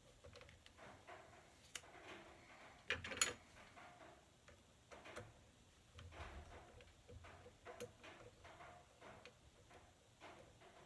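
Faint, irregular clicks, knocks and rustles of small parts and tools being handled during 3D printer frame assembly, with a sharper clatter about three seconds in.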